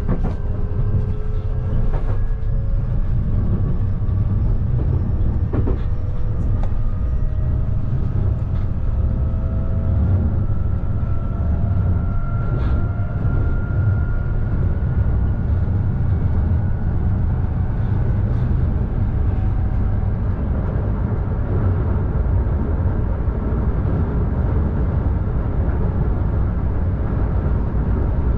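Nankai 12000 series electric train running along the line, heard from behind the cab: a steady low rumble of wheels on rail, with a motor whine that rises slowly in pitch through the first half as the train gathers speed and then fades. A few sharp clicks break in.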